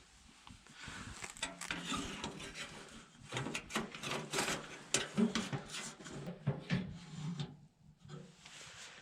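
Wood being handled and worked: irregular knocks, clicks and rubbing or scraping, with a short pause near the end.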